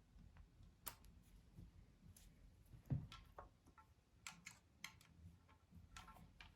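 Faint, scattered clicks and light taps of small parts and tools being handled, with one louder dull thump about three seconds in.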